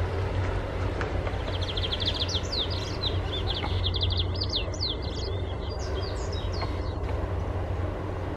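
Steady low rumble of a double-stack container train's wagons rolling past. Over it a small bird sings a quick run of high chirps, from about a second and a half in until about seven seconds in.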